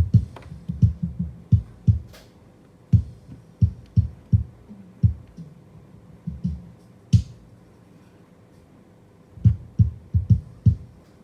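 Soloed kick drum track from a multitrack recording playing back: a drum pattern of deep thumps, some in quick pairs, with faint cymbal clicks bleeding in above. It stops for about two seconds in the second half, then resumes.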